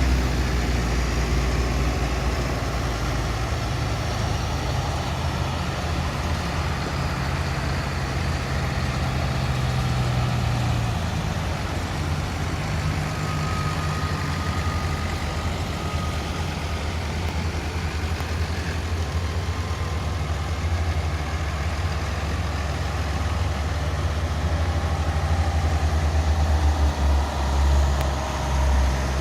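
An engine running steadily with a low hum; its tone shifts slightly about a third of the way through, and the level rises and falls unevenly near the end.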